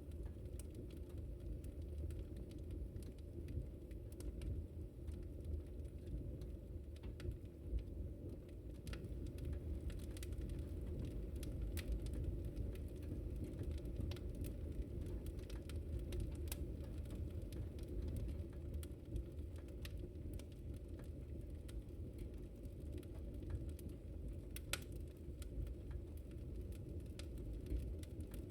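Wood fire burning: a steady low rumble with scattered small crackles and pops, and one sharper pop near the end.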